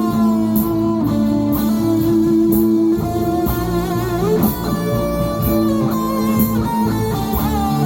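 Instrumental break of a slow ballad: a guitar plays a gliding lead melody over held chords and bass, with a steady cymbal-marked beat.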